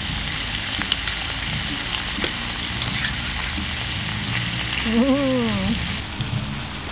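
Pork belly and kimchi sizzling in a griddle pan, a steady crackling hiss with small pops and ticks from the tongs stirring. The sizzling drops away abruptly about six seconds in.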